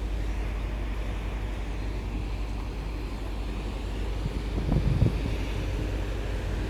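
Wind buffeting the microphone: a steady low rumble, with a louder gust about five seconds in.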